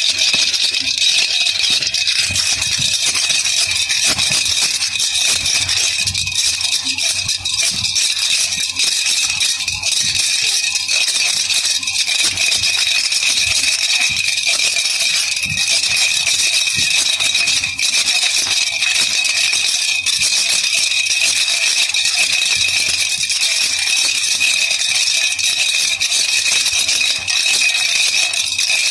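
Baby rattle (jhunjhuna) shaken steadily without a pause, a continuous dense rattling.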